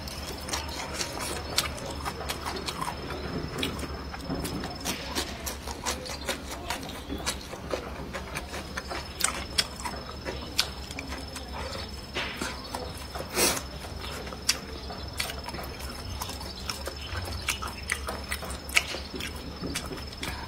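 A person chewing and crunching food up close, with irregular wet clicks and crackles and one sharper crack partway through.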